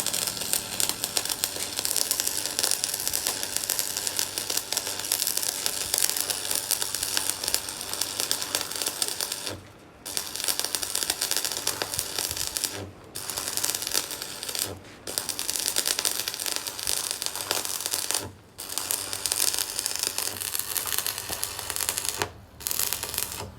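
Electric arc welding: a steady crackling sizzle, with the arc breaking off for short pauses several times.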